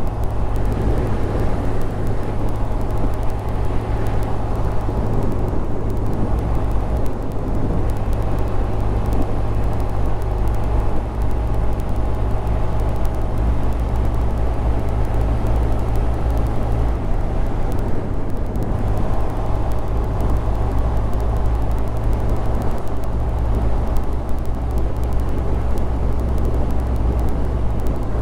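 Honda Grom 125's single-cylinder four-stroke engine running under way, a steady drone with wind and road noise over it. The engine note shifts slightly a little past halfway.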